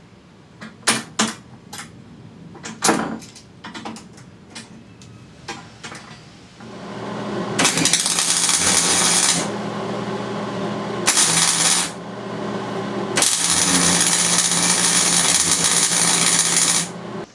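A few sharp clicks and knocks, then an electric power tool starts about six and a half seconds in and runs steadily, with three louder spells as it works.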